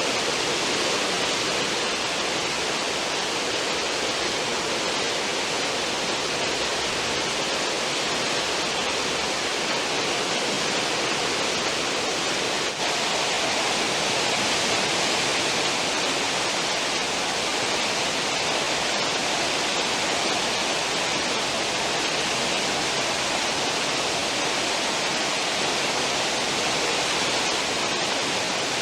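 Cruise ship's stern wake: churning seawater rushing, a steady even hiss.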